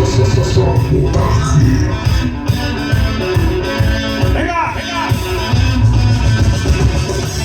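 Rock music with electric guitar and bass over a steady beat, and a bending pitch line a little past halfway.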